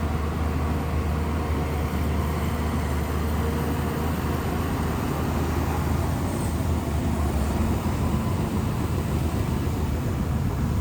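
Shantui bulldozer's diesel engine running steadily while working mud and soil, a deep, even drone.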